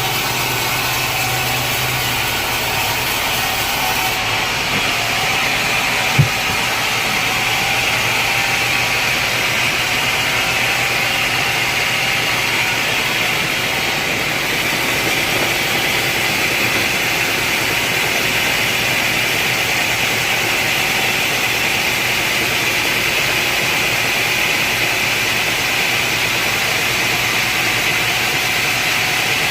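Sawmill machinery running steadily without cutting, between cuts of a teak log, with a single sharp click about six seconds in.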